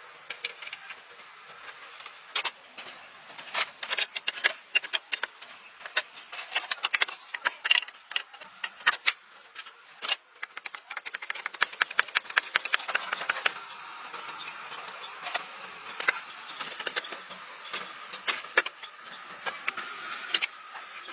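Irregular light clicking and clattering of hand tools and small parts being handled during truck repair work, denser in the middle stretch.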